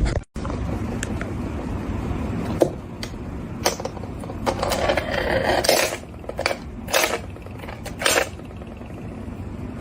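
A series of sharp clinks and clatters of hard objects over a steady low rumble, with a denser run of clattering about five seconds in.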